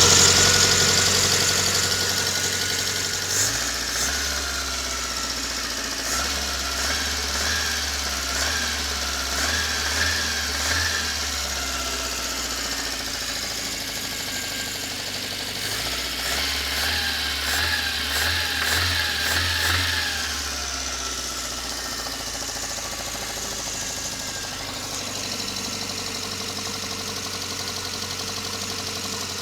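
VAZ-21083 four-cylinder engine running, mostly at idle, revved up and back down twice, a few seconds in and again past the middle. A knock from the cylinder head runs through it, which the owner cannot identify.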